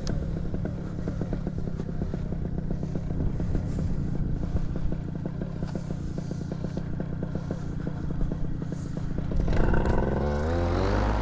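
Paramotor engine idling steadily, then throttled up near the end, its pitch rising as it revs.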